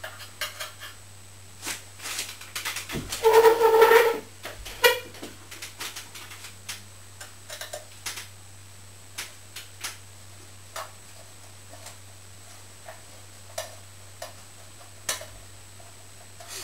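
Tools and metal parts being handled: scattered clicks and taps, with a louder ringing metallic clatter about three seconds in.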